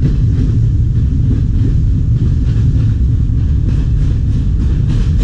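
Passenger train running along the track, heard from on board: a steady low rumble, with faint regular wheel clacks over the rail joints starting near the end.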